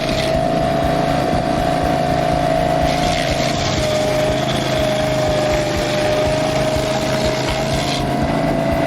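Gas engine of a Barreto 30SG tracked stump grinder running steadily near wide-open throttle while its cutting wheel grinds a stump. A steady whine wavers slightly in pitch, and a hissing layer cuts out briefly near the start and comes back.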